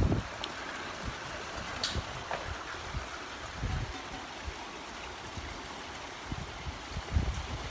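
Steady rain falling as a heavy downpour eases off, with a few short low thumps.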